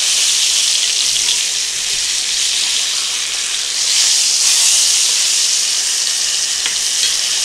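Pork chops sizzling hard in hot oil and butter in a cast iron skillet. The sizzle swells about four seconds in as a chop is turned over with tongs and its raw side goes down into the fat.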